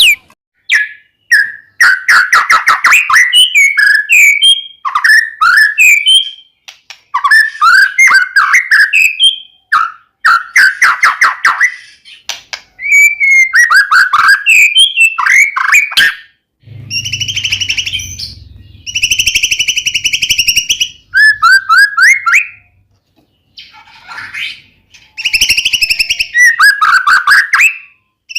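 White-rumped shama singing loudly in varied phrases of rapid whistles, sweeps and trills, broken by short pauses, with a few harsher buzzy notes near the middle.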